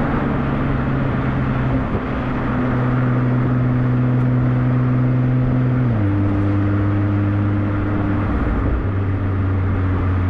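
Nissan GT-R R35's twin-turbo V6 running through an ArmyTrix valved stainless steel exhaust. It holds a steady drone, and its pitch drops in steps, most clearly about six seconds in.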